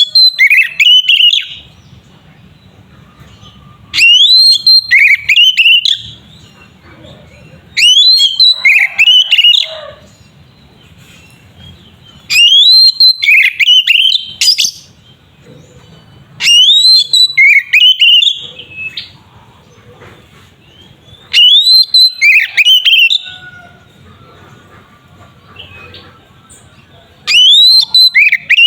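Oriental magpie-robin (kacer) singing loud phrases of clear whistled notes: each about two seconds long, opening with a rising whistle and breaking into quick falling notes. The phrases repeat every four to five seconds with short pauses between them, seven in all.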